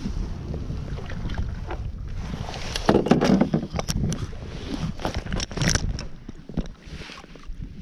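Handling noises on a fishing kayak: irregular knocks and clicks against the hull over a steady rumble of water and wind, loudest about three seconds in, then quieter.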